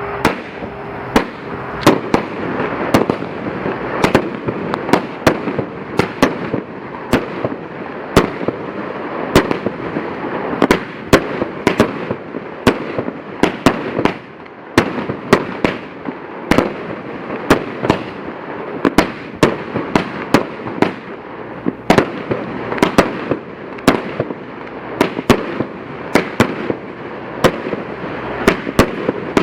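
Fireworks going off without a break: dozens of sharp bangs, often several a second, over a continuous noisy rush of smaller reports.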